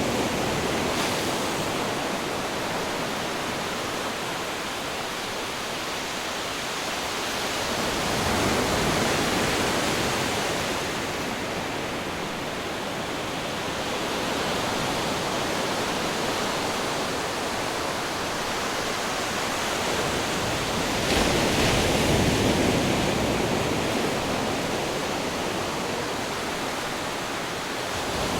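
Ocean waves crashing on rocks: a continuous rush of surf that swells about eight seconds in and breaks again more sharply about 21 seconds in.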